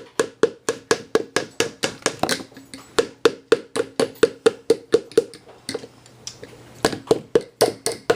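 Rapid, evenly spaced taps or knocks, about four to five a second, each with a short ringing note, as from striking a hollow object; they thin out briefly about six seconds in, then resume.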